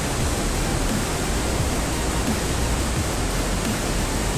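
Steady rushing noise of flowing creek water, even and unbroken.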